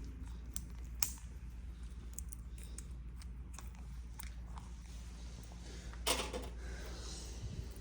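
Parrots' beaks clicking and picking at food, a run of small scattered clicks and taps over a low steady hum, with a louder crackling burst about six seconds in.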